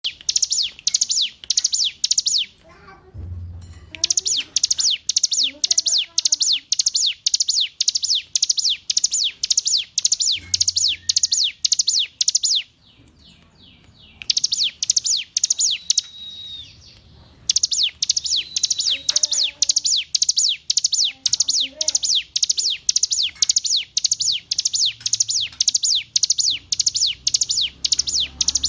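Bar-winged prinia (ciblek gunung) singing: long runs of sharp, high, repeated notes, about four a second, broken by a few short pauses.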